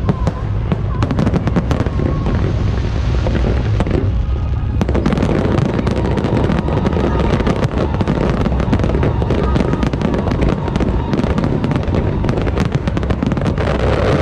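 Fireworks display going off in rapid succession, a constant rattle of shell bursts and crackle. About five seconds in, it thickens into a denser, louder barrage of crackling.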